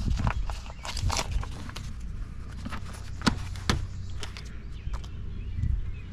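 Scattered clicks and knocks of dishwasher parts being handled during scrapping, with two sharper knocks about three and a half seconds in and a steady low rumble underneath.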